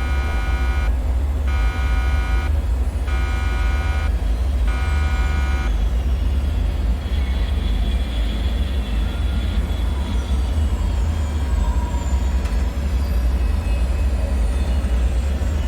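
A heavy, steady low rumbling drone. Over it, a buzzing alarm-like tone pulses on and off about every second and a half, four times, then stops about six seconds in. After that, thin metallic whines and creaks slide in pitch, mostly falling.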